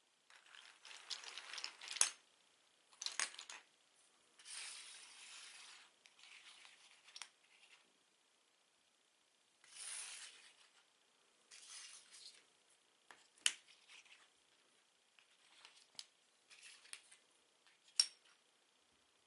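Plastic Lego bricks being handled, with rattling, clicking and rustling in short bursts. A few sharp clicks stand out, including one about two seconds in and another near the end.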